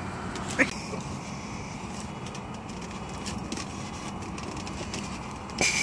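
Car running, a steady low rumble heard from inside, with a sharp click about half a second in and a brief louder rustle near the end.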